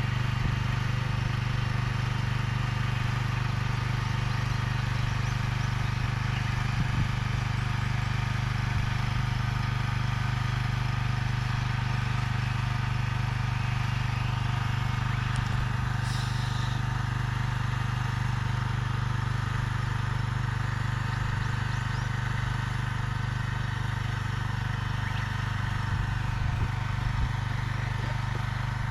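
Engine of a mechanical vegetable transplanter running steadily with an even hum as it plants corn seedlings, with a brief hiss about sixteen seconds in.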